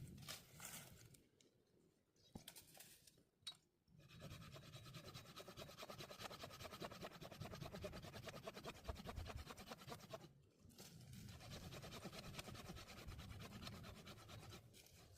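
Handsaw cutting wood with quick, even rasping strokes. The strokes start about four seconds in, pause briefly about ten seconds in, then carry on.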